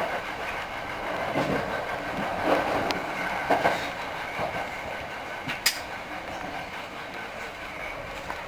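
Hankyu 5000 series electric commuter train running on the line, its wheels clacking over rail joints every second or so above a steady running noise.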